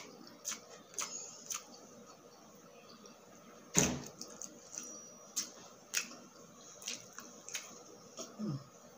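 Close-miked mukbang eating sounds: chewing with wet mouth clicks and smacks coming every second or so, and one loud knock about four seconds in.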